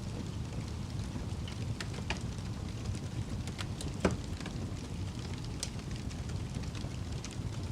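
Fire crackling: a steady low rumble with scattered sharp pops and snaps, the loudest pop about four seconds in.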